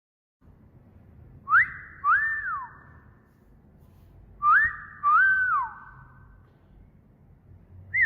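Two wolf whistles about three seconds apart, each a quick upward sweep followed by a second note that rises, holds and glides down. The whistle is for a parrot to copy. A third wolf whistle begins at the very end.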